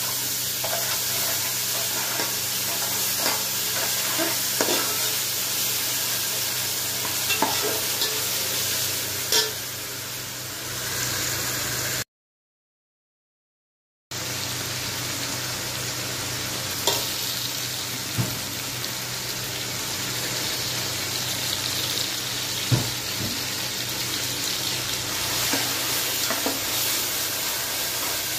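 Onions, then tomatoes, frying in oil in an aluminium pot: a steady sizzle with occasional clicks and scrapes of a spoon stirring. The sound cuts out for about two seconds midway, then the sizzle resumes.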